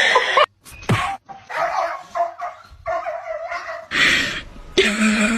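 A dog barking and yipping in short bursts, cut off abruptly twice in the first second or so.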